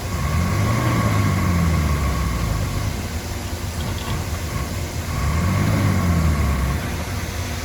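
Heavy diesel earthmoving machine running, its engine revving up under load and easing off twice, with a thin steady high whine over the engine note.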